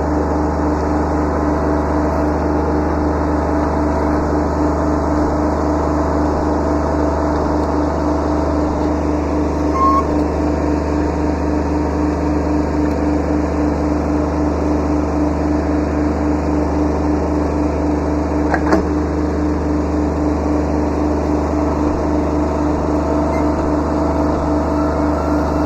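Kubota B7100 subcompact tractor's three-cylinder diesel engine running steadily at high throttle while the tractor works. Two small clicks sound over it, one near the middle and one later on.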